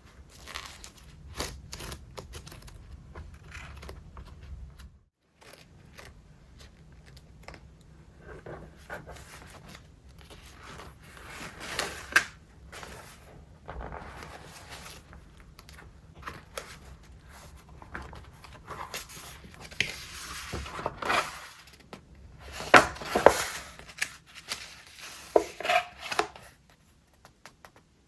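Paper rustling and crinkling as the thick, collage-filled pages of a traveler's notebook are handled and turned, with irregular soft rustles and a few sharper crackles.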